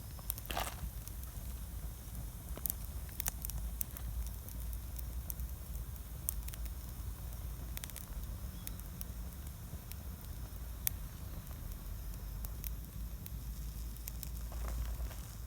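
Wood fire burning in a double-walled, secondary-combustion fire pit, crackling with scattered sharp pops over a steady low rumble.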